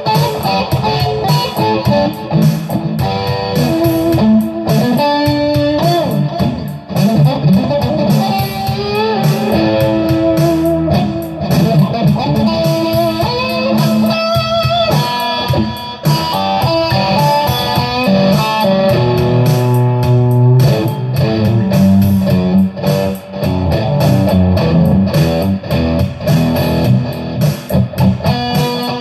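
Electric guitar playing an improvised lead, a line of single notes with some bent and gliding notes, over a continuous low accompaniment.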